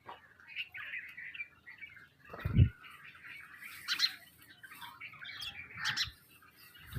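Sparrows chirping and chattering steadily, with a few sharper chirps, and one short, low thump about two and a half seconds in.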